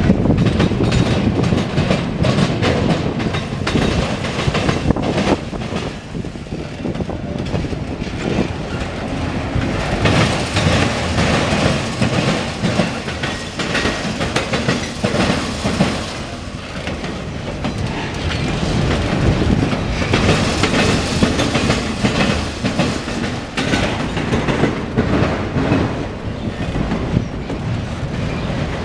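CSX autorack freight train rolling past, its wheels clicking over the rail joints over a steady rumble that grows louder a couple of times.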